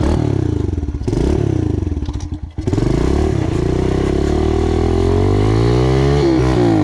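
Kawasaki KLX110 pit bike's small four-stroke single-cylinder engine revving up and down under throttle. After a short lift-off about two and a half seconds in, it climbs in pitch for several seconds, then drops off near the end, as the rear tyre slips on slick wet grass.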